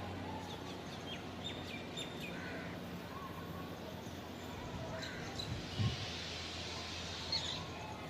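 Small birds chirping in short, scattered calls over a steady low hum and background noise, with one dull low thump a little past the middle.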